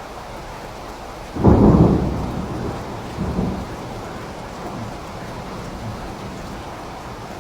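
Steady rain with a sudden peal of thunder about a second and a half in, rumbling away over the next few seconds, with a second smaller rumble a couple of seconds later.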